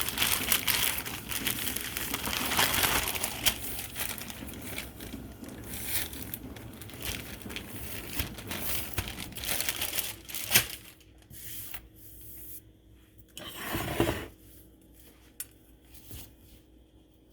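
Rustling and crinkling as tortillas are handled and torn, steady for about the first ten seconds, then thinning to a few light clicks and knocks with one more rustle near the end.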